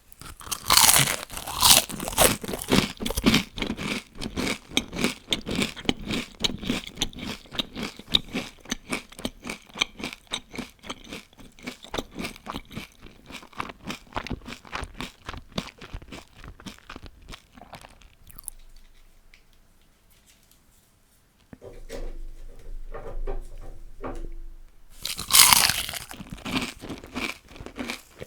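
Loud crunchy bite into crispy deep-fried food, followed by fast crunching chewing that gradually softens and dies away. A second loud crunchy bite about 25 seconds in starts another round of chewing.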